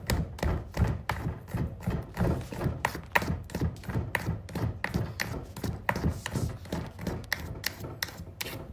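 A rapid, irregular run of thumps and taps, several a second, over a low rumble.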